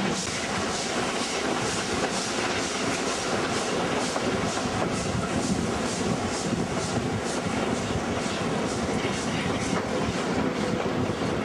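Double-headed W-class steam locomotives working a train up a steep grade, heard from aboard: a steady, even rhythm of exhaust chuffs over the continuous rumble and clatter of the carriages.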